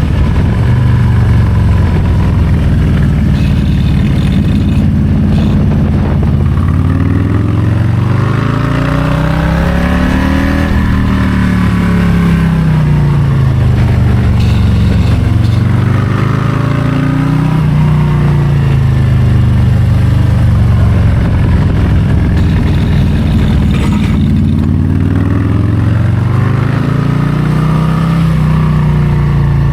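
Harley-Davidson Low Rider ST's Milwaukee-Eight 117 V-twin running under way, its pitch climbing about a third of the way in, dropping back, then climbing again near the end as the throttle is rolled on and off.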